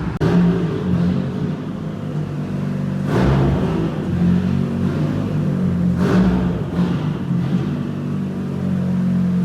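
Car engine running with a steady low note, blipped up in short revs about every three seconds.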